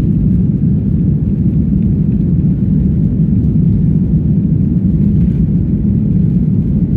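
Airliner cabin noise during landing: a steady low rumble of engines and rushing air that holds level throughout.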